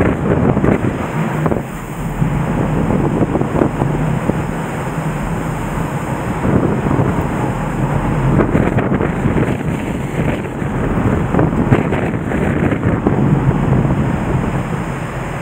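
The flood-swollen Nagara River rushing with a loud, steady roar of fast water, with wind buffeting the microphone.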